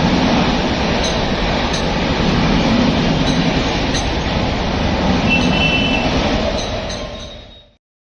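Rajdhani Express train running on the rails: a steady rumble with scattered sharp clicks from the wheels, then the sound fades out near the end.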